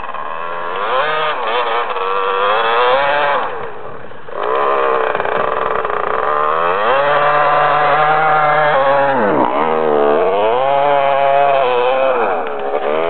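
Husqvarna 250 dirt bike engine revving as the bike rides in snow, its pitch climbing and falling again and again with throttle and gear changes. The engine note drops off briefly about four seconds in and sinks deeply past nine seconds before climbing again.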